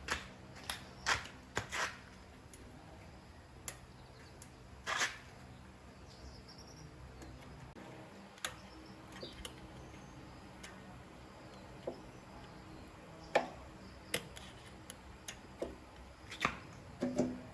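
Irregular clicks and light knocks of hand tools and small metal parts being handled during motorbike repair work, about fifteen of them scattered with pauses between, the loudest about thirteen seconds in.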